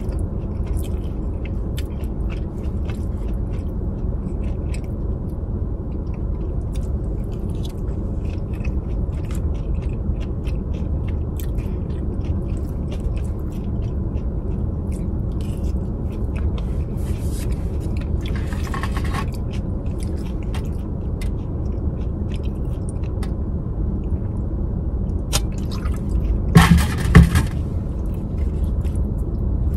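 Close-miked chewing and biting of a burrito bowl of steak, rice and lettuce, with small wet mouth clicks and light fork sounds, over a steady low rumble. About three seconds before the end there is a brief, louder scraping burst.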